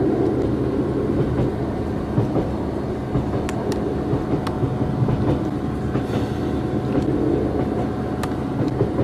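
Passenger train running at speed, heard from inside the carriage: a steady rumble of wheels on the rails and running gear with a constant hum, and a few sharp clicks from the track.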